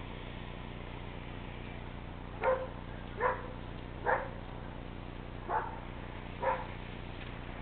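A dog barking five times, short single barks about a second apart, over a steady background hiss.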